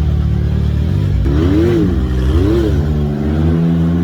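Can-Am Maverick X3 side-by-side engine running under load while rock crawling, revved up and back down twice in quick succession.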